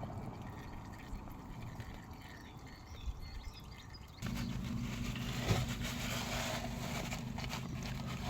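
Faint scattered workshop noise, then about four seconds in a steady mechanical hum starts abruptly and keeps running, with light clicks and clatter over it.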